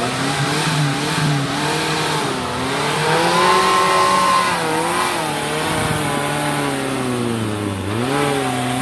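Off-road vehicle engine revving under load, its pitch rising and falling several times and climbing highest about midway.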